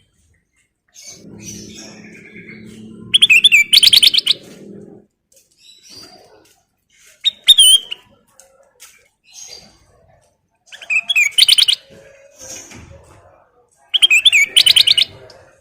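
Kutilang emas (a bulbul) singing: four loud phrases of fast, warbling whistled notes, repeated about every three to four seconds, with softer calls in between. A low background sound runs under the first few seconds.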